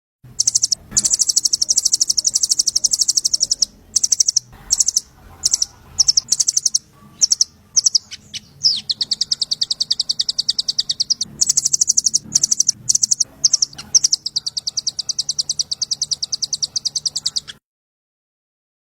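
A small songbird's very rapid, high-pitched trills, repeated in bursts with short gaps, over a faint steady low hum; the trilling stops about a second before the end.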